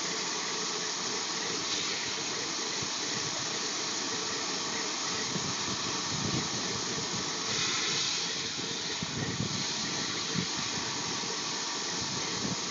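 Water hissing and spraying steadily from a pressurized water line left live during the repair.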